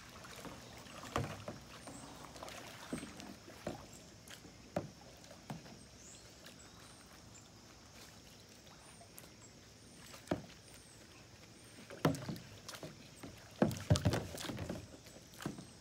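Knocks and bumps on a kayak over faint water noise, scattered and irregular, with louder clusters of thumps about twelve and fourteen seconds in.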